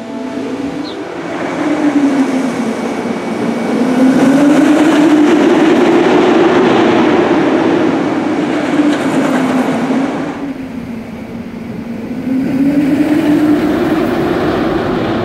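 Steel roller coaster train running an empty test lap, wheels rumbling on the track in a loud roar that rises and falls in pitch as it speeds up and slows. It swells twice, a long pass through most of the first ten seconds and a shorter one near the end.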